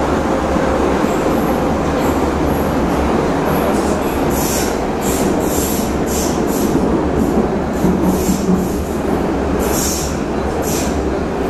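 Prague metro train running through the tunnel with a steady low rumble. From about four seconds in, a string of short, high squeals and hisses comes from the wheels on the rails.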